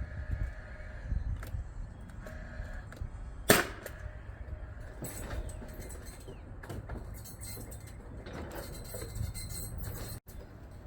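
A nail driven into the soffit wood with one sharp crack about three and a half seconds in, followed by light clattering and handling noise.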